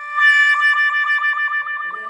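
"Sad trombone" loser sound effect: the last, long note of a descending brass "wah-wah-wah-waaah", held with a wavering wobble and ending about two seconds in.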